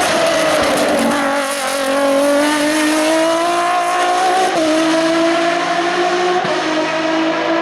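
Hill climb race car engine under hard acceleration: its pitch dips briefly at first, then climbs, drops sharply at a gear change about four and a half seconds in, and climbs again.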